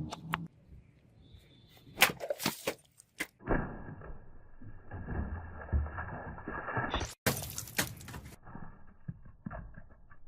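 Several sharp cracks and knocks, a cluster of them about two to three seconds in and more near the middle, between stretches of rougher noise.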